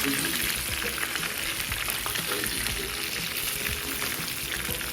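Chicken taquitos frying in hot oil: a steady sizzle with many small crackles.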